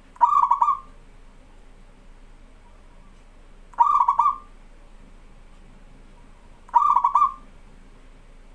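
Zebra dove (local perkutut) cooing: three short, rapidly pulsed coos, each about half a second long, spaced about three seconds apart.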